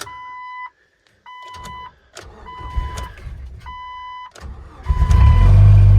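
Dodge pickup's warning chime beeping five times while the engine cranks, then the engine catches about five seconds in on a cold start and settles into a steady low idle.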